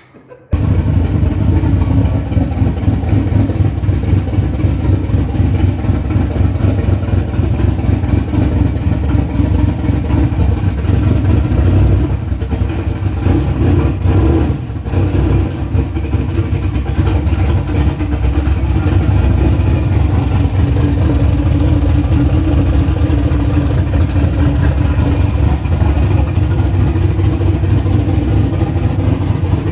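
Small-block V8 engine running loud and steady, cutting in suddenly just after the start, with a brief dip in level around the middle.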